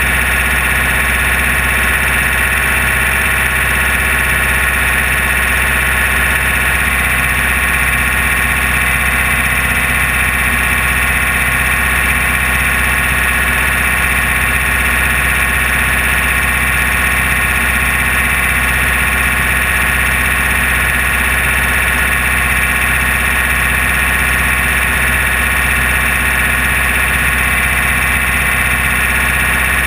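Air-cooled VW engine of a Class 1600 off-road race car running at a steady pace, heard from inside the car as a loud, unchanging drone.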